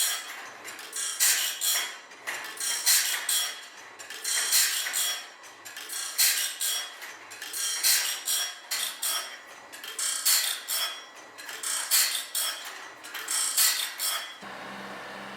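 Repeated scraping strokes, about one every one and a half seconds, each a short rasping burst. Near the end they give way abruptly to a steady low machine hum.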